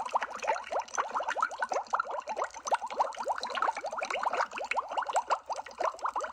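Water bubbling: a dense, continuous stream of bubbles, each one a quick rising blip.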